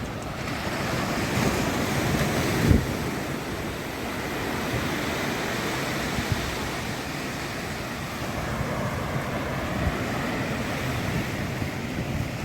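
Ocean surf washing steadily onto the beach, swelling over the first few seconds, with wind buffeting the microphone. There is a sharp low thump near three seconds in.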